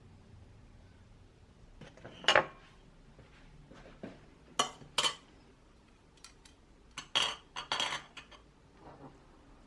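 Dishes and cutlery clattering and clinking: a handful of sharp knocks, the loudest about two seconds in and a cluster of three near the end.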